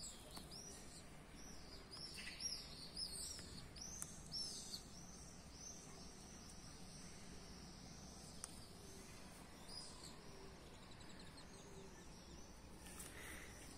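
Small birds chirping faintly: many quick, high, repeated chirps, thickest in the first few seconds and thinning out after about ten seconds.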